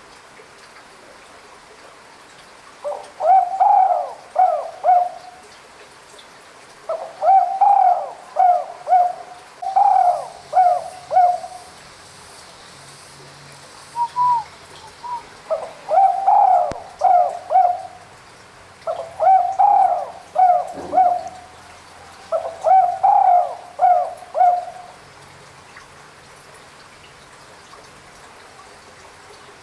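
Spotted dove cooing: about six phrases of three or four low, hollow coo notes, repeated every few seconds with short pauses between.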